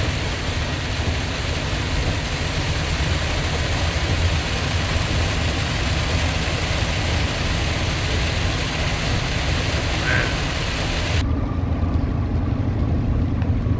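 Heavy rain drumming on a car at highway speed, heard from inside the cabin over a steady low rumble of tyres and engine. About eleven seconds in, the rain noise drops away abruptly, leaving the road and engine rumble.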